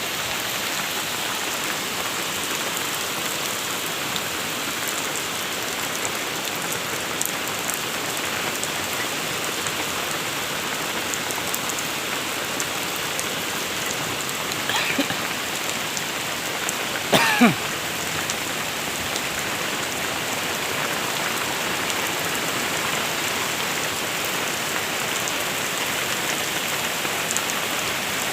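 Heavy rain falling steadily. Two short pitched sounds cut through it, a faint one about fifteen seconds in and a louder one about two seconds later.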